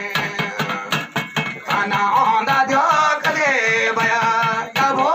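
Pahari folk music: a melody line that bends and slides in pitch, over repeated drum strokes, settling on one held note for about a second shortly before the end.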